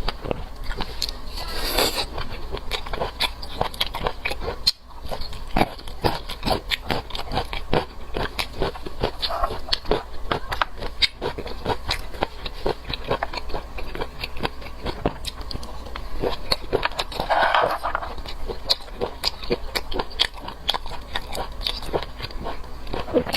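Close-miked mukbang eating of seafood: a dense run of rapid, wet chewing and lip-smacking clicks, with a few short smeary noises mixed in.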